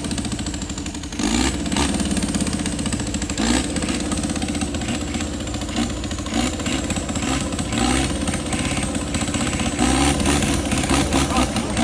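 Off-road pickup truck engine running and revving up and down, with scattered knocks and clatter from the vehicle working over rough ground.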